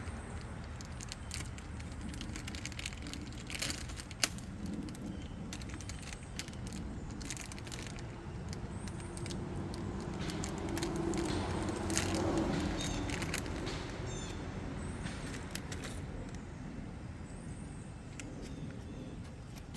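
Scattered clicks and light rattles of hands handling the fuel filter, fuel line and tools, over a low steady rumble that swells around the middle.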